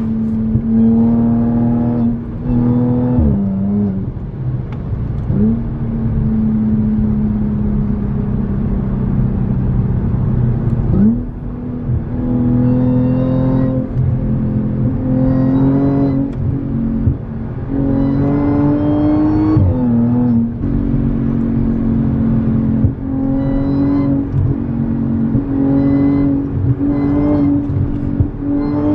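Stage 2 Audi S5's supercharged 3.0 V6 with an X-pipe and muffler-delete exhaust, pulling under acceleration. Its pitch climbs steadily through each gear and drops sharply at several upshifts.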